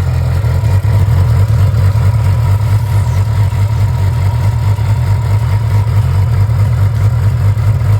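A 2008 Yamaha R6's 600 cc inline-four engine running steadily, with no revving, on its first start after seven years in storage, on fresh fuel and a new battery.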